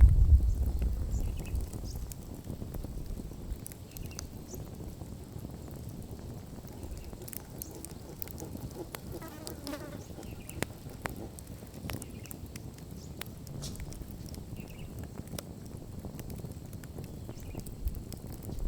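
Wood campfire crackling, with scattered sharp pops and snaps over a low steady hum; a louder low rumble at the start dies away over the first few seconds.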